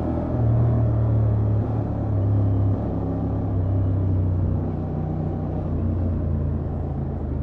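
Honda XL750 Transalp's parallel-twin engine running through its stock exhaust at steady revs on the move. It drops a little about three seconds in and eases off slowly toward the end.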